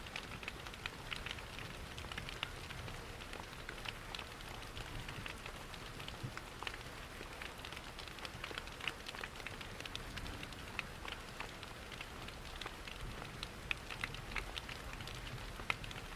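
Layered ambience of steady rain and a crackling fireplace: a constant patter dotted with many small, sharp crackles and ticks, over a soft low rumble.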